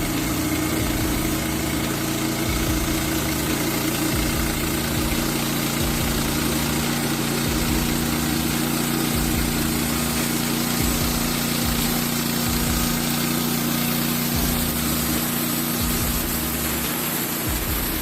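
A portable bandsaw mill's gasoline engine running steadily, at an even pitch with no change in load.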